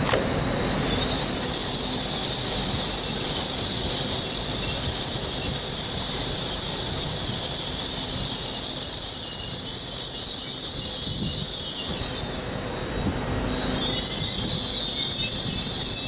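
A train's wheels squealing on the rails: a loud, high-pitched hissing screech that runs for about ten seconds, fades briefly, then starts again near the end.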